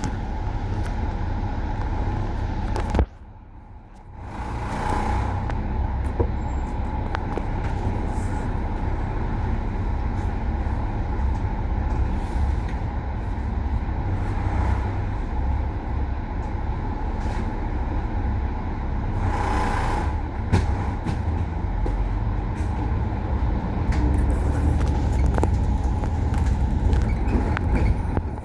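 Bus running with a steady low engine drone, with two short bursts of hiss about five and twenty seconds in. The sound drops away sharply for about a second near three seconds in.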